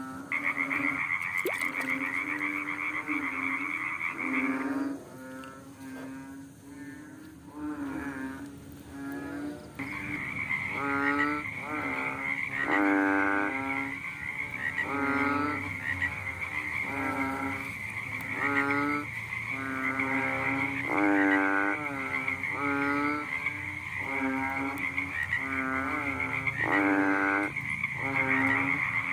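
A frog calling over and over, a short pitched croak about once a second. A steady high-pitched trill runs behind most of it and drops out for a few seconds early on.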